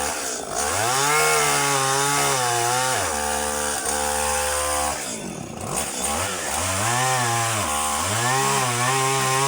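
Chainsaw engine revved up to high speed and held, dropping back briefly around the middle before revving up and holding high again.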